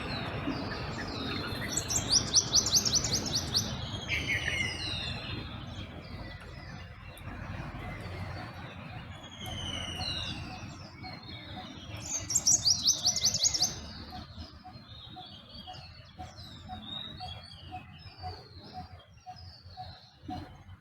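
A dawn chorus of wild birds calling and singing: many short down-slurred whistles overlap, and a loud, rapid trill comes in twice, once about two seconds in and once about twelve seconds in. A low rumble sits under the first half, and in the second half a low note repeats about twice a second.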